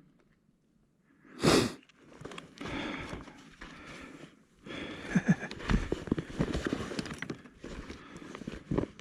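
A short, loud puff of air on the microphone about a second and a half in, then irregular crunching and rustling of footsteps through brush and dirt.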